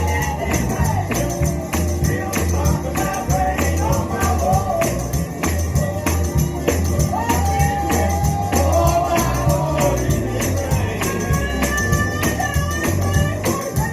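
Live gospel music: a woman singing lead over a band with a deep bass line, a tambourine keeping a steady beat, and other voices joining in.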